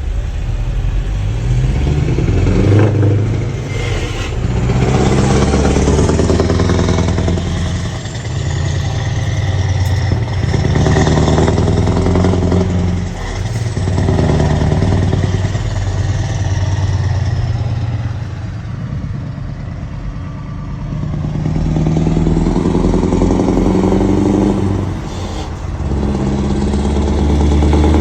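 Scania V8 diesel truck engine running loud under full load, its note building and dipping every few seconds.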